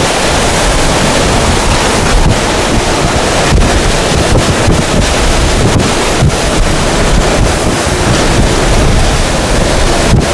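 Hurricane-force eyewall winds roaring without letup, buffeting the microphone with heavy wind noise, with only brief momentary lulls.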